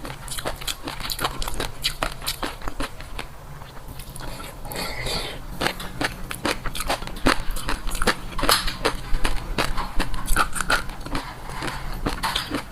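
Close-up eating sounds: crunchy biting and chewing, a fast, irregular run of sharp crackles and crunches, thinning briefly about three seconds in.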